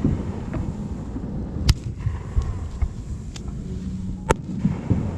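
Fireworks display: sharp shell bursts crack about three times, the loudest a little under two seconds in, over a continuous low rumble of distant booms.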